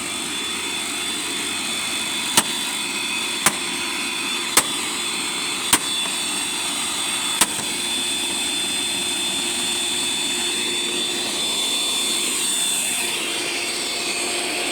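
Eureka Boss Super Light bagless upright vacuum's motor running with a steady high whine, the motor already smoking. Five sharp clicks come about a second apart in the first half.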